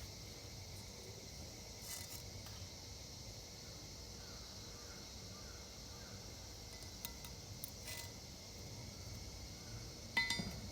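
Low steady background hum with a few faint ticks and one sharp metallic clink near the end.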